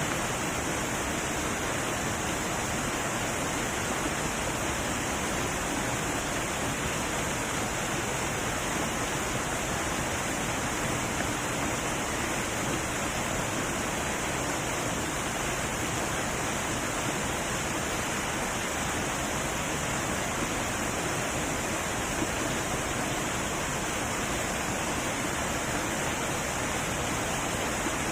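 Heavy waterfall: water falling and churning in a steady, unbroken rush.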